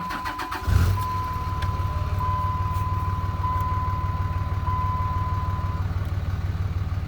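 Dodge Cummins inline-six turbodiesel cranking briefly and catching under a second in, then idling steadily on its first start after an oil change. A single-pitch electronic chime beeps repeatedly over it and stops near the end.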